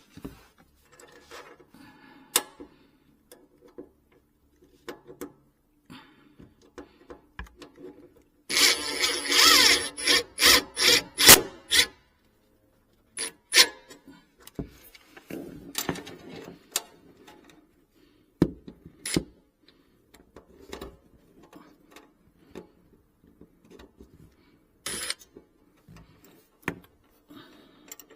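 Hand-tool work on a kitchen sink's fittings: scattered knocks, clicks and rubbing, with a loud stretch of quick rasping, saw-like strokes about nine to twelve seconds in.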